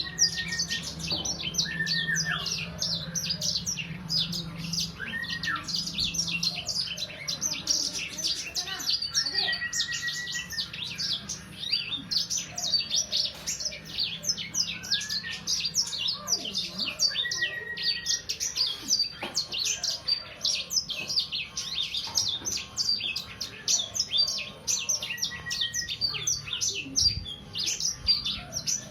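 A young songbird about three months old singing continuously: a dense, unbroken chatter of rapid high chirps with a few short whistled notes mixed in.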